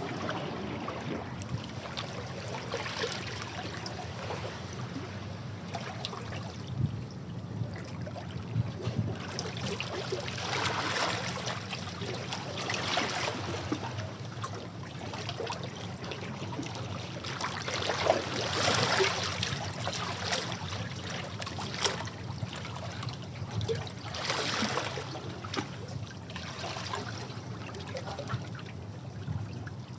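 Sea waves washing over rocks: a constant wash of water with surges that swell and fall back every few seconds, and small splashes and trickles running through it.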